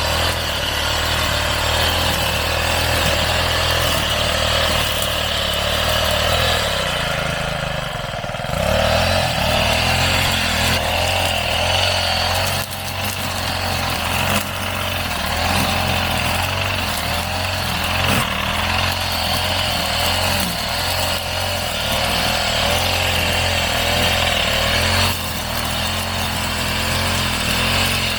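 Petrol brush cutter running at working speed while cutting grass and weeds, its engine note dipping briefly about eight seconds in before picking back up.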